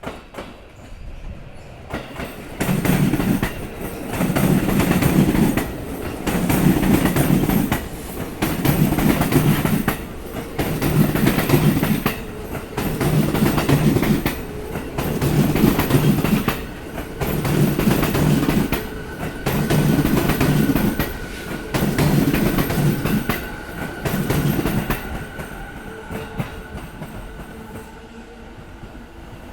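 Commuter train wheels striking a rail joint as the cars pass, making a loud, repeated clatter about every two seconds, about eleven times in a row. The clatter fades out near the end as the last car clears the joint.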